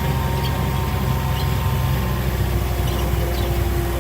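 Steady low-pitched drone of a vehicle's engine and running gear on the move, with a faint steady whine above it.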